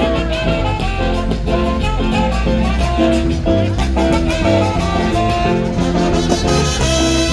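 Loud brass band music: a lively dance tune with trumpets over a steady bass and beat.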